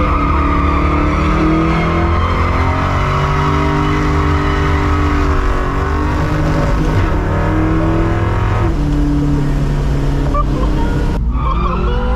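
Holden HQ Monaro muscle car's engine revving hard, its pitch rising and falling in long sweeps over a hissing rush. The sound changes abruptly about 11 seconds in.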